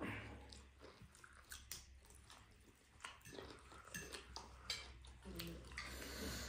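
People chewing food close to the microphone: soft, irregular mouth clicks and smacks.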